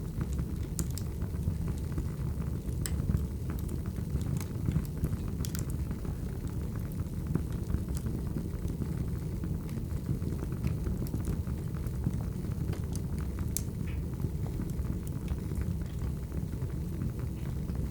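Wood fire burning: a steady low rumble with scattered sharp crackles and pops from the logs.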